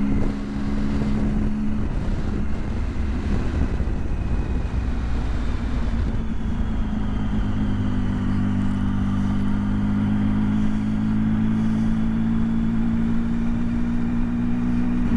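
Motorcycle engine running as the bike rides off, with rushing wind noise over the helmet microphone; the engine's pitch rises slightly near the end.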